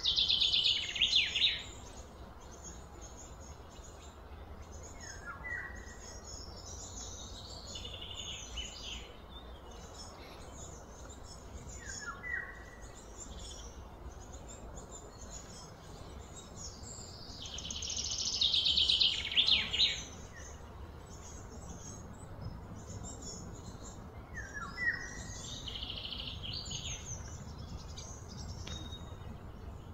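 Birds calling: short chirps every few seconds, with two louder, fast trilled phrases, one at the very start and one that builds up and stops abruptly about two-thirds of the way through. A low steady background hum runs underneath.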